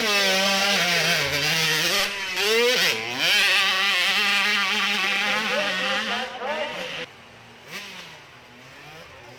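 Motorcycle engine revving hard on a hill-climb run, its pitch rising and dipping several times, then dropping off sharply about seven seconds in.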